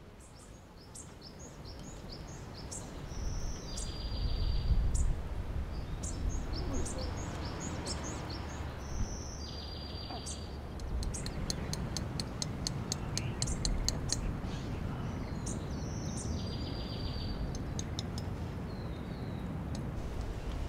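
Birds calling over a steady low rumble: short high chirps throughout, one call that comes back three times about six or seven seconds apart, and a quick run of ticks around the middle.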